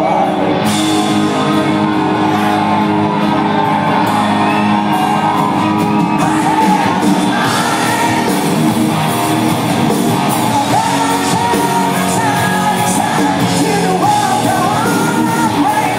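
Live rock band playing with a singing voice over the music, heard in a large concert hall, with some yells from the audience.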